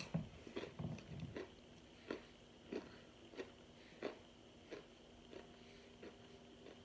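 A person chewing crunchy air-fryer-toasted cornstarch chunks, with faint, soft crunches at an even pace of about three every two seconds that grow weaker toward the end.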